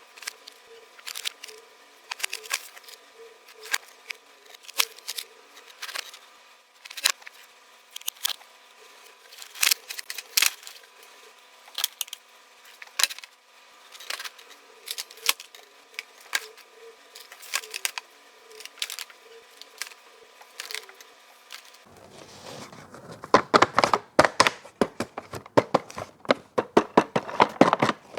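Toy packaging being opened by hand: sharp irregular clicks and snips for most of the stretch, then about 22 seconds in a louder, denser crinkling and tearing of plastic and cardboard packaging.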